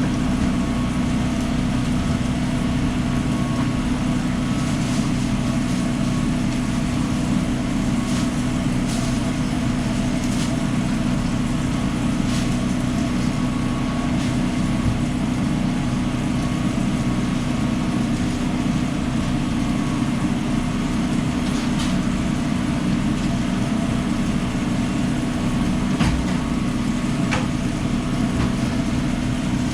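Steady, loud mechanical hum of food truck machinery running, engine-like, with a few light clicks and clinks scattered through it.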